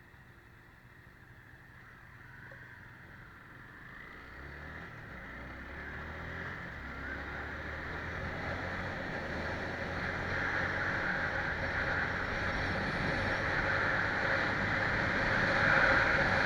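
A vehicle engine pulling away, with road and wind noise building steadily louder as it gains speed.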